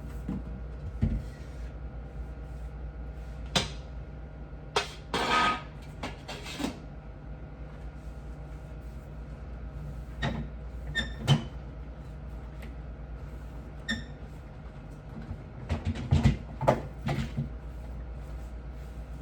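Scattered knocks and clunks from household items being handled and set down while cleaning, with a longer scraping rub about five seconds in and a cluster of knocks near the end, over a steady low hum.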